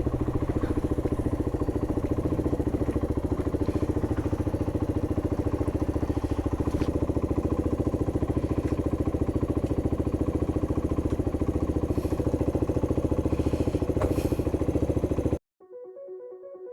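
MGB ATX125 125cc adventure motorcycle engine idling steadily with an even, rapid beat, cutting off abruptly near the end.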